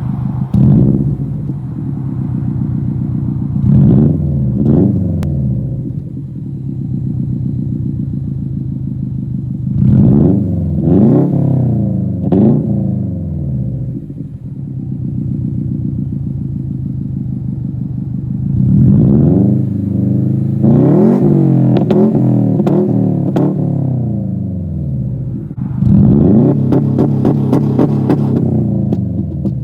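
Subaru WRX STI's turbocharged flat-four running through a muffler-delete exhaust. It idles and is blipped in quick revs that rise and fall, then held at higher rpm past the middle. Near the end it stutters at a held rpm with sharp crackles, typical of launch control bouncing off its limit.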